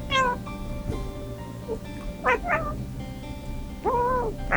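Domestic cat meowing four times over background music: a falling meow at the start, two short meows in quick succession a little after two seconds, and a longer meow that rises and falls near the end.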